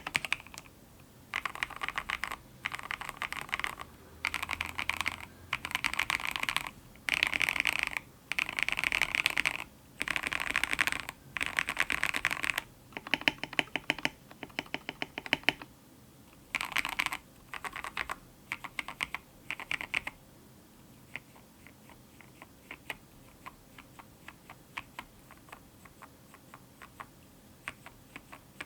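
Mechanical keyboard with lubed and filmed Gateron X linear switches being typed on fast, in bursts of rapid keystrokes broken by short pauses. After about twenty seconds the typing gives way to slower, lighter, scattered key presses.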